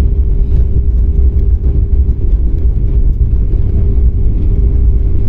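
Airliner's jet engines running, heard inside the passenger cabin: a loud, steady low rumble with a constant hum over it.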